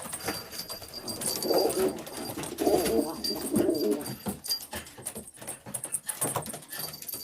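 Domestic pigeons cooing, with low warbling coos about a second and a half in and again from about three to four seconds, amid scattered small clicks and rustles.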